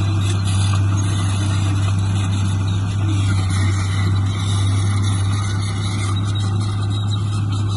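Heavy diesel engine of earth-moving machinery running at a steady pace, a constant low drone.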